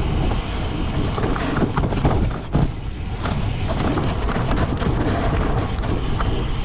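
Cyclocross bike ridden hard over rough ground: wind rumbling on the microphone and tyre noise, with frequent rattling clicks and knocks from the bike.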